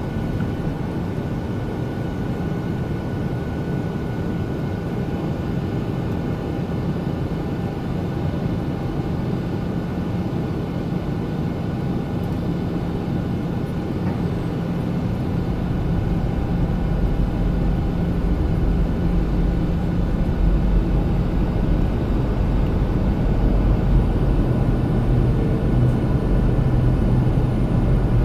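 Passenger aircraft cabin noise on the landing approach: a steady rumble of engines and airflow with a constant hum, growing louder and deeper about halfway through.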